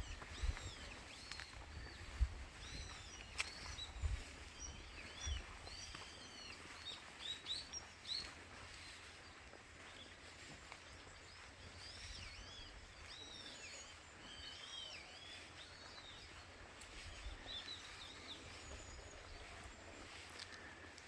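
Small birds chirping, many short high calls repeating throughout and busiest in the second half, over a faint outdoor hiss. Low bumps on the microphone in the first several seconds.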